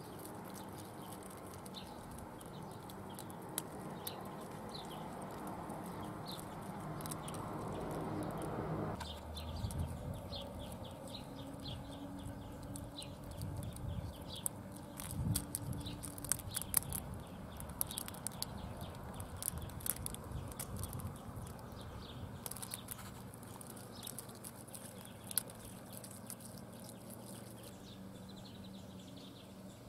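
Outdoor background with birds calling in short high chirps and scattered sharp clicks. A steady rushing noise stops abruptly about nine seconds in, and a low steady hum runs for a few seconds around the middle.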